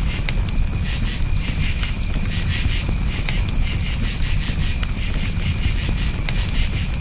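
Campfire crackling with sharp scattered pops over a low steady rumble, and crickets chirping in repeated pulsed trains.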